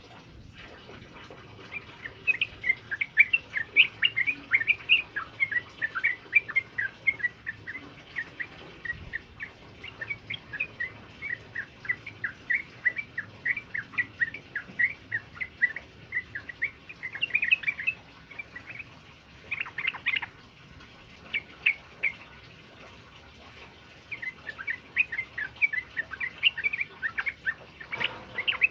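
Male trucukan (yellow-vented bulbul) singing a long, fast run of short, high chattering notes, pausing about two-thirds of the way through with a couple of short phrases, then starting up again near the end.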